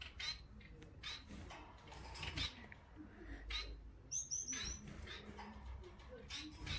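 Small pet birds chirping: short, scattered high chirps, with a quick run of four higher chirps about four seconds in.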